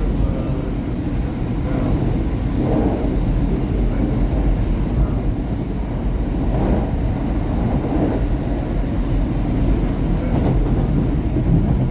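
Market-Frankford Line subway train heard from inside the car while running on the track: a steady low rumble of wheels and car body, with a few short swells in the rail noise.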